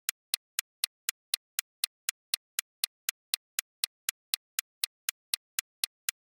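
Steady clock-like ticking, about four sharp ticks a second with dead silence between them, as from an added clock or timer sound effect.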